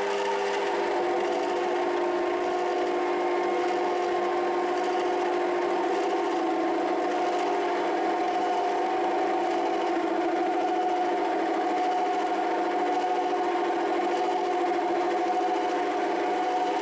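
Rotwerk 7x14 mini lathe running steadily with a constant whine made of several pitched tones, typical of its plastic change gears, which make most of its noise.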